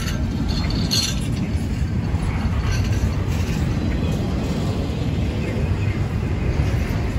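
Freight train rolling past: a steady low rumble of steel wheels on rail, with brief metallic clinks about a second in.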